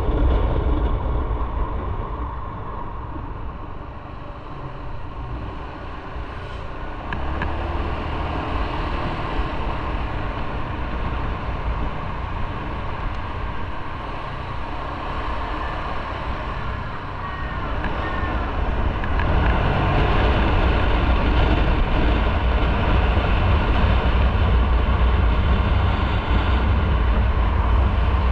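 Motorcycle on the move, with its engine and wind rushing over the microphone in a steady loud rumble. It eases off a few seconds in and grows louder again about two-thirds through.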